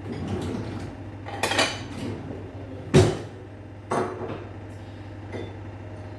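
Kitchen dishes and utensils clinking and knocking as they are handled: a handful of separate knocks, the loudest about three seconds in, over a steady low hum.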